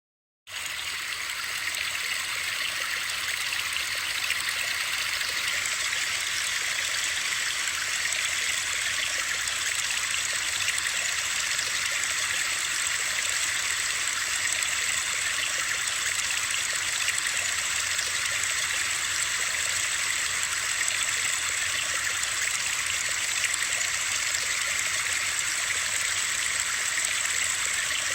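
Steady rushing water noise, the kind used as white noise for sleep: an even hiss with no separate drops or splashes, cutting in suddenly about half a second in after silence.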